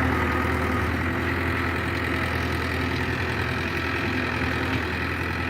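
Powertrac 4455 BT tractor's diesel engine running steadily at a constant speed.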